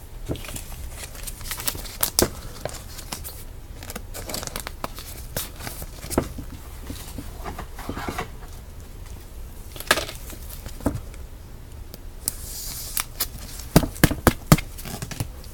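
Foil trading-card pack wrappers crinkling and being torn, with cards handled and shuffled in sharp little clicks and rustles. A brief louder rustle comes a little after 12 seconds, and a quick run of clicks near the end.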